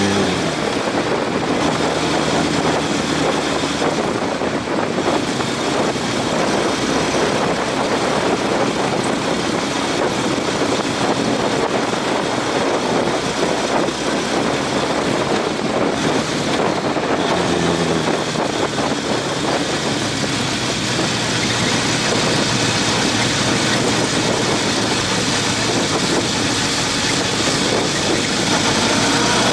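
Honda CB750's inline four-cylinder engine running under way, heavy wind rush over it. The engine note changes pitch a few times.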